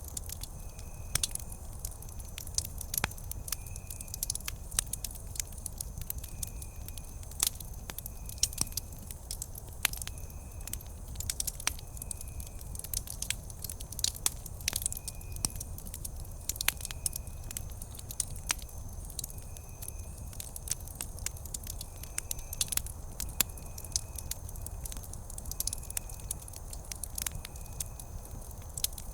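Wood campfire crackling, with frequent sharp pops over a low steady rumble. A short high chirp repeats about every second and a half throughout.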